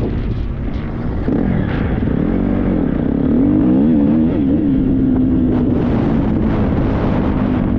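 Triumph 250 motocross bike's four-stroke single-cylinder engine running under the rider. Its revs rise about a second in, waver up and down as the throttle is worked, then hold steady.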